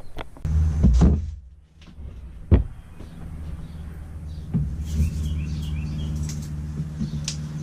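A steady low motor hum, with scattered knocks and clicks from packaging and crate parts being handled during unboxing.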